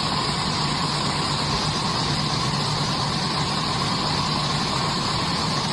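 A machine's engine running steadily at an even pitch, with a low hum under a broad hiss.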